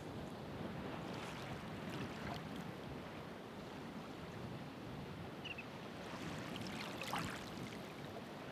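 Ocean waves washing on the shore: a steady rushing wash, with a brighter splash about a second in and another, the loudest, about seven seconds in.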